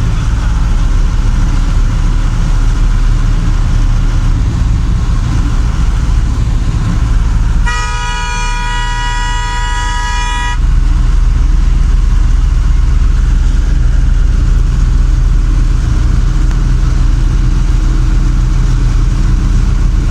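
Steady road rumble of a moving vehicle. A vehicle horn sounds once, held for about three seconds, roughly eight seconds in.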